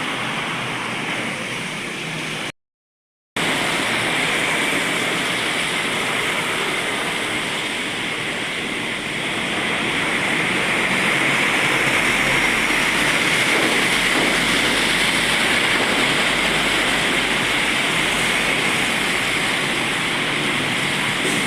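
Traffic on a wet road in drizzle: a steady hiss of tyres and spray on wet asphalt. A deeper rumble builds about ten seconds in as a heavy truck passes. The sound cuts out for under a second near the start.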